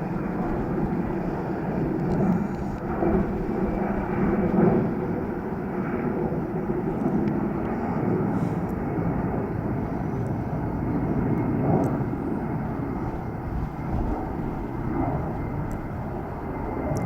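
Airbus A320's CFM56 jet engines running, a steady, loud rumble with a faint high whine above it.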